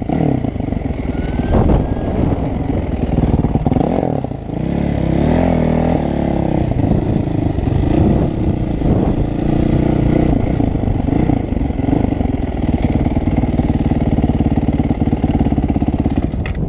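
Dirt bike engine running and revving, its pitch rising and falling repeatedly, then holding a steady pitch through the second half.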